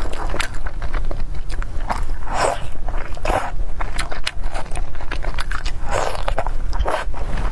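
Close-miked biting and chewing of a braised green chili pepper stuffed with meat: a quick run of small wet clicks and crackles, broken by several louder bites.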